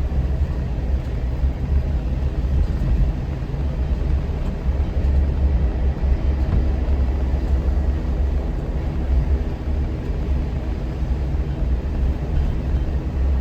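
A vehicle's engine and tyres running steadily while driving, a constant low rumble with an even engine drone over it.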